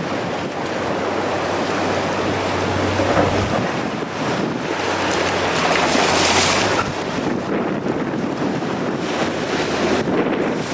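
Strong wind buffeting the microphone over the wash of ocean surf, with a louder rush about six seconds in.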